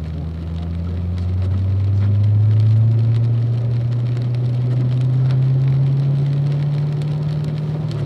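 Car engine pulling steadily under power, its pitch climbing slowly, then dropping sharply near the end at a shift or lift. A steady hiss of tyres and spray on the wet track runs underneath.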